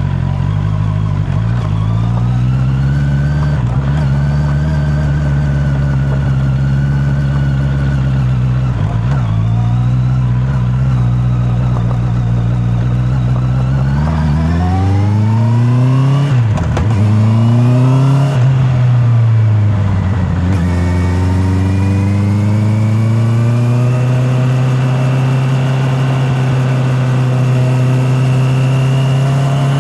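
Honda CB650R's inline-four engine running on the move, heard from a microphone in the rider's pocket. It holds a steady note at first. About halfway through it revs up three times in quick succession, the pitch dropping sharply at each gear change, then settles into a steady cruise at a slightly higher pitch.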